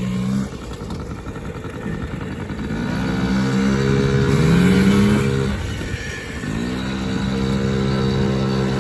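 Small off-road vehicle engine revving up through about two seconds, easing off around five to six seconds in, then revving up again and holding a high steady pitch.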